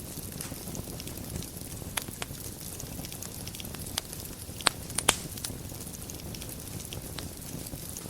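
Wood fire burning in a fireplace, a steady low rumble of flames with scattered crackles and a few sharp pops, the loudest two close together about five seconds in.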